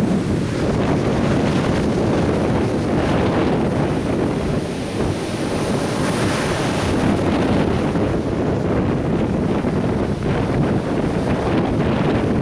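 Atlantic surf breaking and washing on the beach in a steady, continuous rush, with wind buffeting the microphone.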